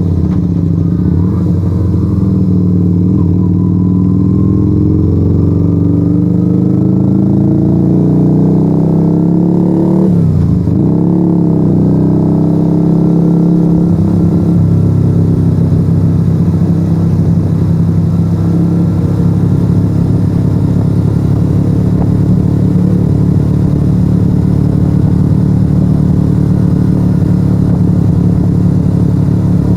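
Yamaha XV125 Virago's 125 cc V-twin running through a straight-pipe Turbo Kit exhaust with no dB killers, heard from the rider's seat. The engine note climbs steadily for about ten seconds, drops and picks up again in a quick gear change, rises a little more, then holds a steady pitch while cruising for the second half.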